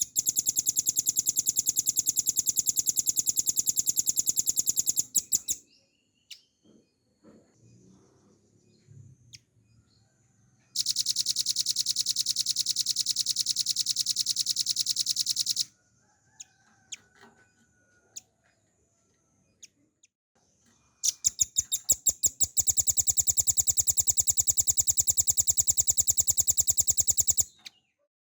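Velvet-fronted nuthatch (rambatan paruh merah) singing three long, fast trills of rapidly repeated notes, each about five seconds long, with pauses of about five seconds between them.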